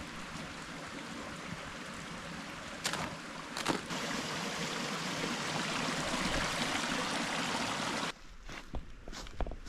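Steady rush of a flowing stream that cuts off suddenly about eight seconds in, followed by a few soft footstep-like knocks.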